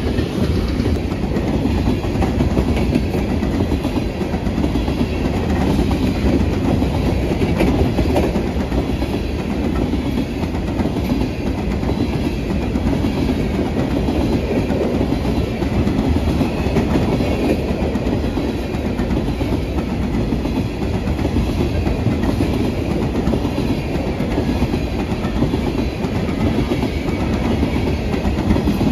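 Freight train's hopper cars rolling past close by: a steady rumble of steel wheels on the rails with rhythmic clickety-clack over the rail joints.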